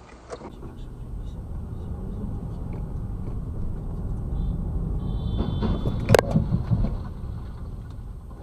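Car road rumble building up, a brief high-pitched squeal, then a single sharp bang of a collision about six seconds in, after which the rumble dies away.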